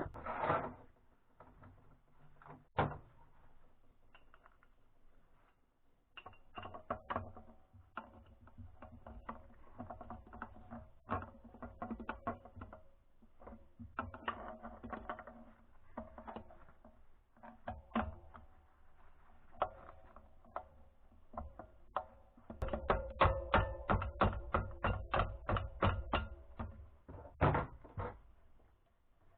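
Metal tools and engine parts clicking and knocking during hand assembly of a motorcycle engine, with a quick run of about four or five taps a second for several seconds near the end.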